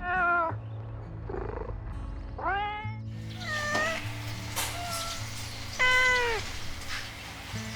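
Kittens meowing repeatedly, about six short meows, some falling in pitch at the end, over soft background music with steady low held notes.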